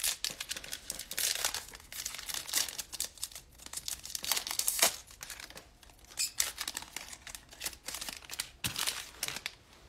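Plastic cellophane pack wrapper crinkling and tearing as a trading card pack is opened by hand, in irregular crackles that die away near the end.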